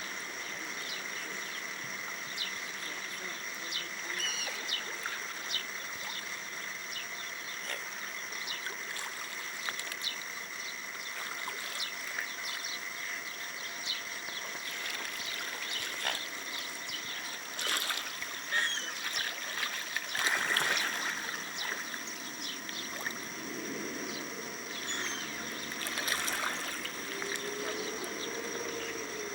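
Swans on a river squabbling over food: water trickling and splashing, with short bird calls throughout. There are louder bursts of splashing about two-thirds of the way through and again near the end.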